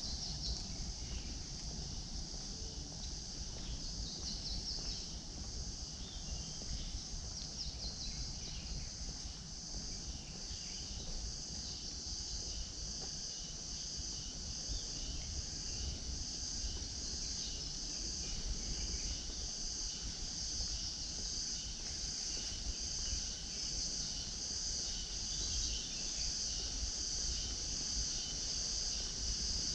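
A chorus of insects: a steady, high, shrill buzzing that pulses in a regular beat and grows louder in the second half, over a low rumble.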